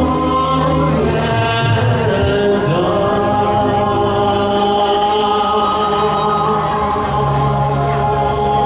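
A male singer singing a slow ballad live over backing accompaniment, moving through a phrase and then holding long sustained notes.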